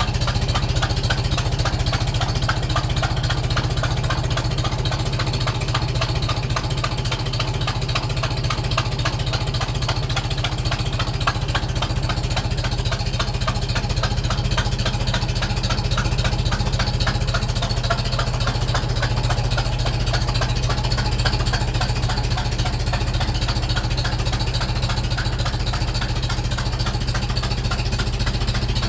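Farmall Super M tractor's four-cylinder engine idling steadily with a rapid knocking/tapping from the exhaust. The owner first took it for a cracked exhaust manifold but now thinks it is a leaking manifold gasket.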